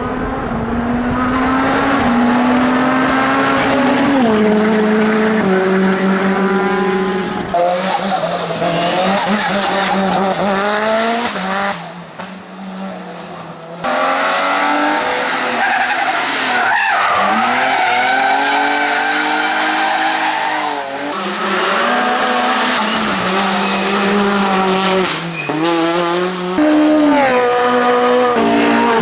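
Race car engines at full throttle on a hillclimb course, revving up and dropping back at each gear change, with tyre squeal, in a run of short clips of different cars that change abruptly every few seconds.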